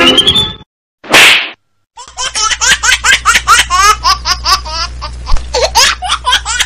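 A short swish of noise about a second in, then from about two seconds on a long run of laughter in quick repeated bursts.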